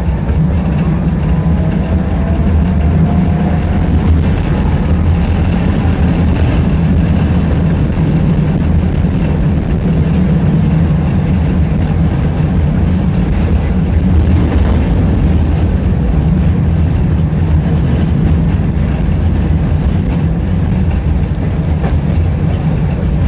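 Tram in motion, heard from inside the passenger car: a loud, steady low rumble of the wheels and running gear on the rails, with a faint rising whine in the first few seconds.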